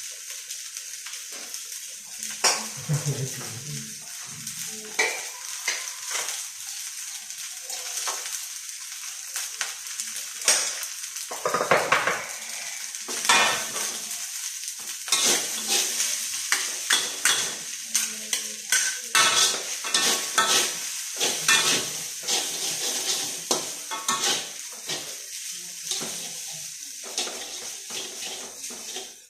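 Food sizzling in a frying pan, with a utensil stirring and scraping against the pan in many short strokes and clinks.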